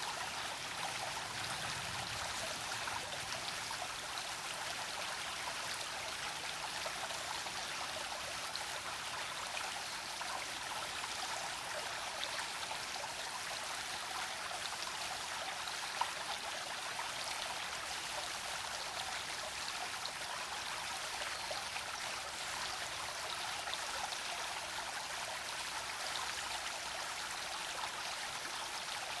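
A babbling brook: shallow stream water flowing and trickling over stones, a steady even splashing with one brief click about halfway through.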